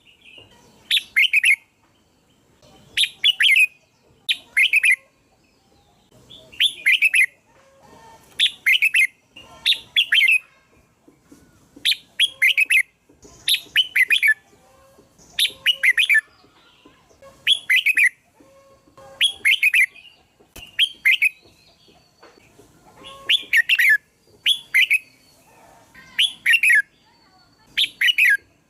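Red-whiskered bulbul song: short, bright chirping phrases repeated every second or two, often in close pairs. It is the bulbul call used to lure other bulbuls.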